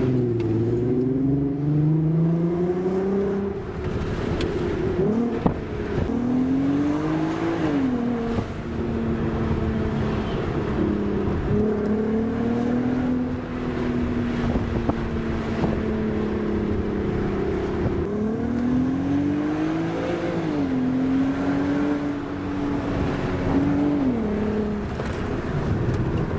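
Mk5 VW Golf R32's 3.2-litre VR6 engine through a Milltek exhaust, heard from inside the cabin. It pulls up through the revs with rising pitch, and the DSG gearbox's upshifts drop the pitch sharply several times, with stretches of steadier running between.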